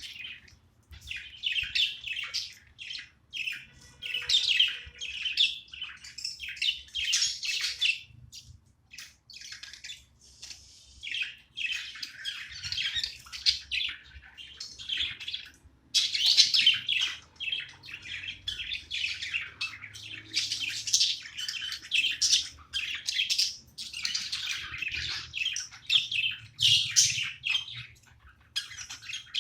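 Budgerigars chirping and warbling in rapid, continuous chatter, with short squawks, pausing briefly twice.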